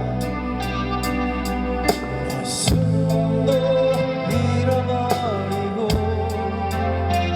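Band playing a rock ballad: a singer's wavering melody over guitar, held bass notes and regular cymbal strokes from the drums.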